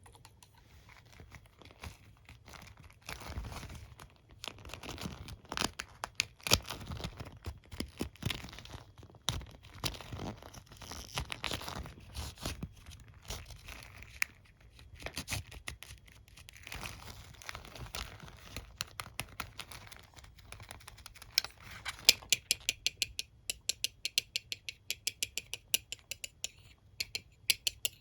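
Comb and hairbrush handled close to the microphone: scratching and rubbing over the bristles and teeth, then, for the last several seconds, a fast run of sharp clicks.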